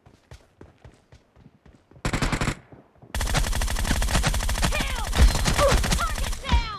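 Video-game automatic gunfire: a few faint scattered shots, a short rapid burst about two seconds in, then a long burst of rapid fire lasting over three seconds, with a few falling whistle-like tones over it, stopping near the end.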